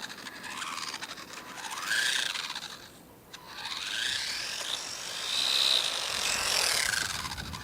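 Losi Mini Desert Truck, a 1/18-scale electric RC truck, being driven. Its motor and gears whine, rising and falling in pitch as the throttle is worked, in two long runs with a brief drop about three seconds in.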